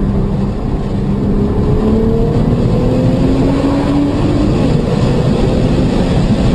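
Car engine pulling under acceleration, its note rising slowly, over loud steady road and wind noise.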